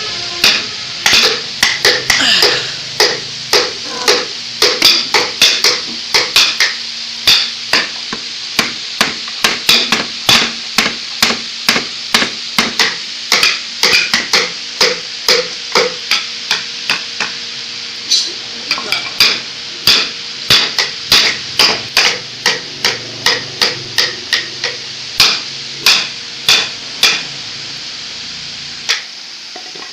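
Steady hammering on wood, about two blows a second with short pauses, stopping a couple of seconds before the end.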